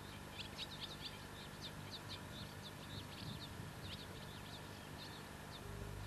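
Small bird calling in a rapid run of short, high chirps that die away near the end.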